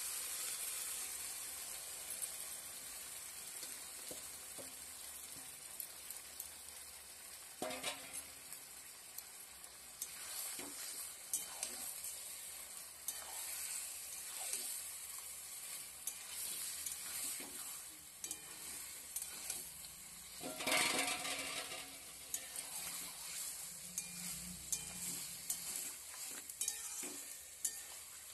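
Marinated mutton sizzling in hot oil in a kadai, loudest at first and settling down, while a metal spatula scrapes and stirs it every few seconds.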